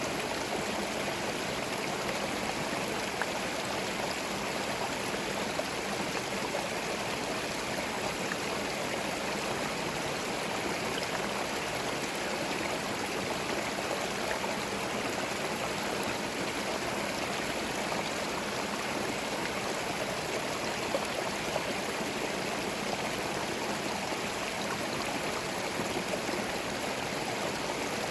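Small forest stream flowing over stones, a steady, even rush and gurgle of running water with no other sounds.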